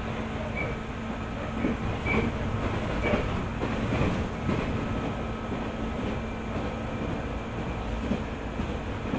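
JR 205 series (600 subseries) electric train running, a steady rumble with the wheels clacking over rail joints, the clacks most marked in the first half.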